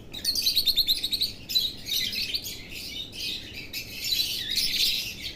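Many small cage birds chirping and tweeting together in an aviary, a dense run of rapid, high chirps, busiest about a second in.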